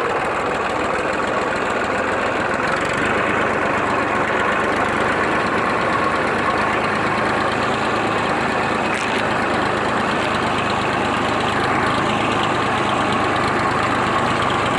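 Massey Ferguson tractor engine running steadily at an even, unchanging pitch and level.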